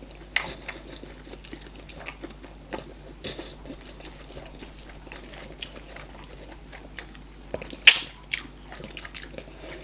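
Close-up mouth sounds of chewing and biting food, with irregular short wet clicks and a sharper click just before the end.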